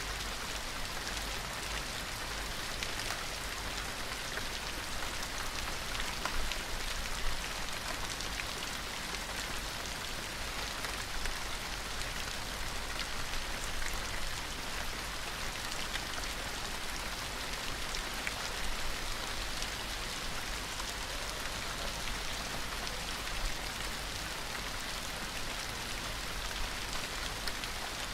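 Steady rain falling on a surface: an even hiss with scattered individual drop ticks, plus a faint steady low rumble underneath.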